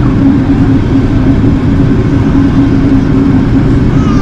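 Steady cabin roar of an Airbus A380 in flight: engine and airflow noise with a constant low hum.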